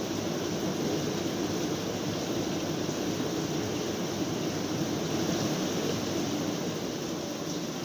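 Steady rain falling: an even, continuous hiss with no thunder.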